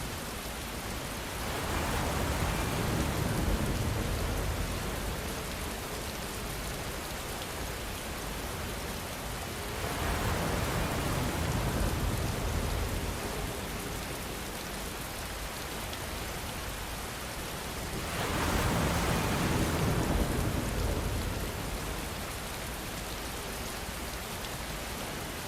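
Steady rainfall with an even hiss, swelling louder three times, for a few seconds each.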